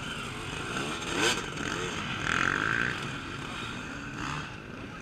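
Off-road motorcycle engines revving as dirt bikes ride the cross-country course, the engine pitch rising and falling, with a louder stretch about halfway through.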